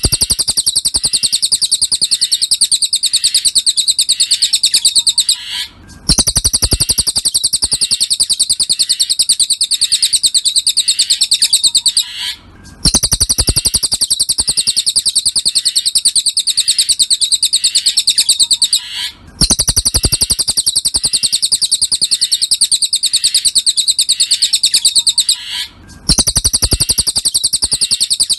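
Cililin bird singing a fast, continuous trill of high chirping notes. It comes in stretches of about six seconds, each broken by a brief gap, then starts again in an even repeating pattern, as in a looped birdsong training track.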